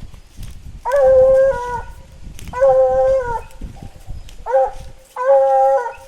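Blue Gascony griffon hound baying four times, drawn-out, even-pitched howling calls, the third one short; a scent hound giving voice as it works a trail.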